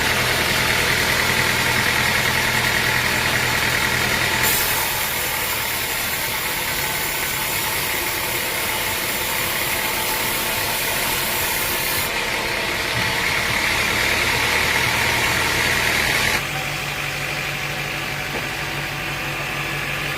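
Sawmill machinery running steadily with an engine-like hum. The sound changes abruptly a few times: about four seconds in, about twelve seconds in, and again near the end.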